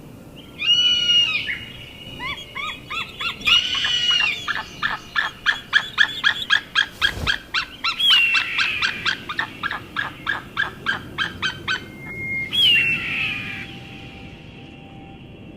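An eagle calling: a fast series of short, high, repeated chittering notes, about four a second, broken by several longer, drawn-out screams that fall in pitch at the end.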